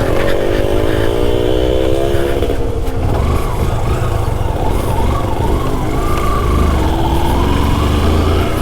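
Motorcycle engine pulling under throttle. Its pitch climbs over the first couple of seconds, drops back, then climbs again near the end, over a steady low rumble.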